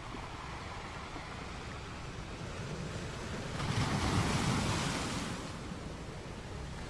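Ocean surf washing steadily, with one wave swelling louder and breaking about halfway through before easing off.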